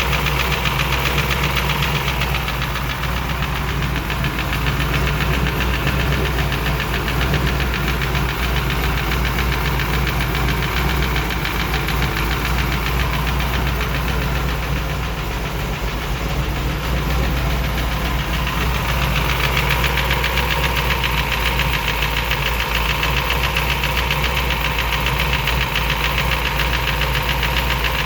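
Ford FE 428 Cobra Jet V8 running steadily with a rapid ticking from its valvetrain: lifter noise from its Morel hydraulic roller lifters.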